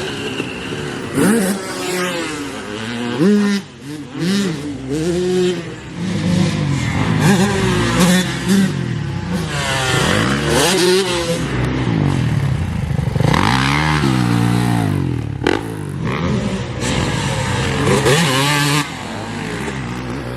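Motocross dirt bikes revving hard, engine pitch climbing and dropping again and again as they accelerate and back off around the track, with more than one bike heard at once.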